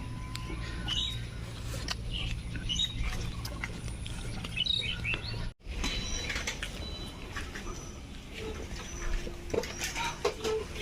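Birds chirping in short scattered calls over a steady low outdoor background, with a brief dropout about halfway through.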